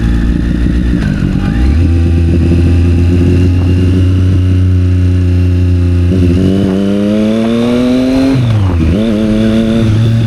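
Triumph Street Triple 765 R's three-cylinder engine through a Yoshimura exhaust, ridden in traffic. It holds a steady note, pulls up in pitch from about six seconds in, drops sharply just past eight seconds and climbs again before levelling off.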